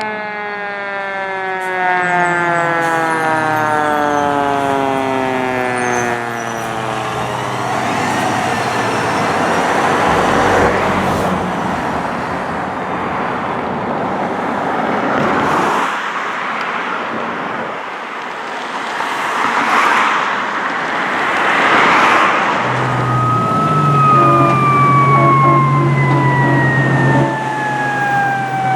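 Sirens of fire apparatus responding. A siren with strong overtones falls steadily in pitch over the first several seconds, then a loud rush of passing engine and road noise with several swells. Near the end another siren tone slides slowly down in pitch over a low, steady engine drone.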